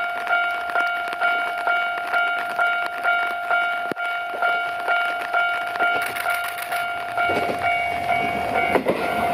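Japanese level-crossing warning bell ringing, a repeating electronic clang about twice a second. About seven seconds in, the rumble and rattle of a Yoro Railway 600-series local train passing grows over it.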